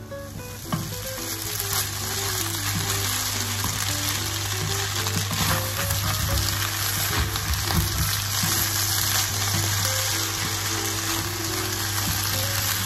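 Glass noodles and cabbage sizzling in a hot nonstick wok as they are stir-fried and tossed with a wooden spatula. The sizzle swells over the first second or two and then holds steady.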